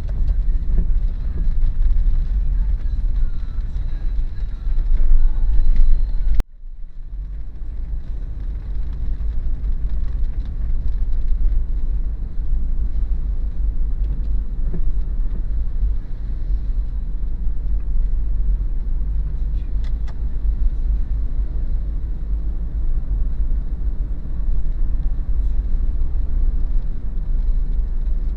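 Steady low rumble of a Daihatsu Terios being driven: engine and tyre noise. The sound cuts off abruptly about six seconds in and comes straight back.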